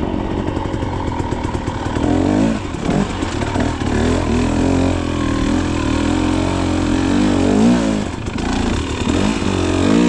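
Two-stroke KTM dirt bike engine running, its pitch rising and falling repeatedly with the throttle, with a brief dip in level about eight seconds in.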